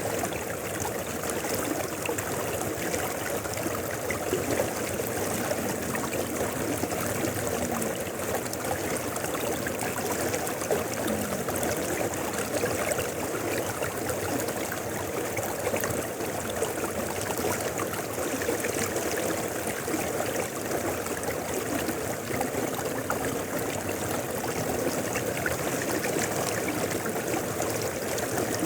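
Mountain river flowing steadily, an even rush and trickle of water with no breaks or surges.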